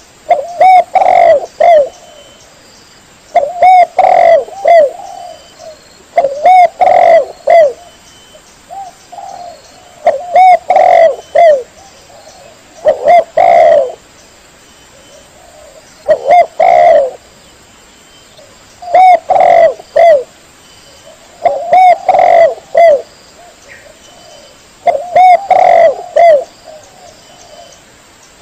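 Spotted dove (tekukur) cooing: a phrase of a few coo notes, repeated about every three seconds with short quiet gaps between.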